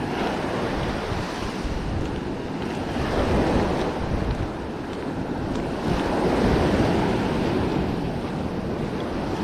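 Ocean surf washing onto the beach, swelling about three seconds in and again about six seconds in, with wind rumbling on the microphone.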